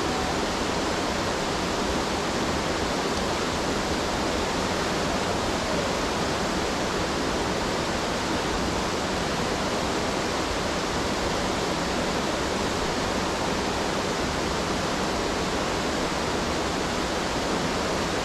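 Steady rushing of whitewater tumbling through a class IV rapid, an even wash of noise with no breaks.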